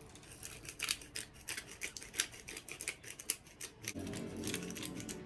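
Hand-twisted pepper grinder grinding black pepper: an irregular run of quick, dry clicks. Soft background music comes in about four seconds in.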